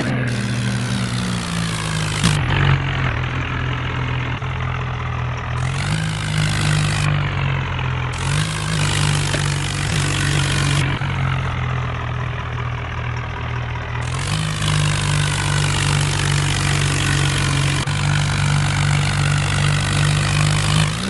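Tractor diesel engine running under load while hauling two trailers, its pitch rising and falling several times as the throttle is opened and eased, with a broad hiss that comes and goes over it.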